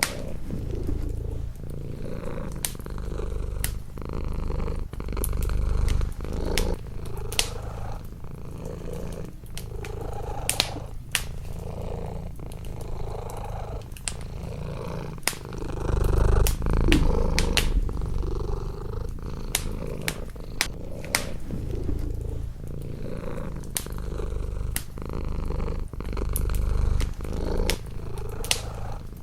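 Domestic cat purring close to the microphone, the rumble swelling and easing every couple of seconds with its breaths. A wood fire crackles alongside, with frequent sharp pops and snaps.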